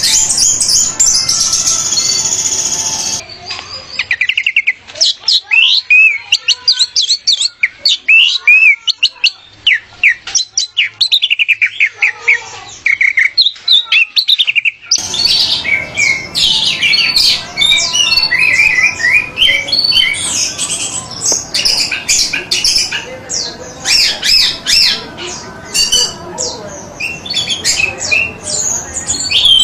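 Songbirds singing: rapid, loud chirps and warbling trills in spliced recordings that change abruptly about 3 seconds and 15 seconds in.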